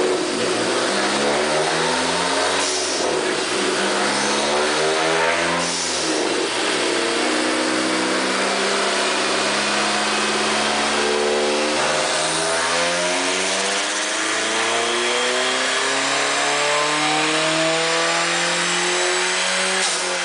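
Dodge Neon SRT-4's turbocharged 2.4-litre four-cylinder making a full-throttle pull on a chassis dyno. The engine pitch climbs four times, each climb longer than the last, with a drop in between as it shifts up through the gears.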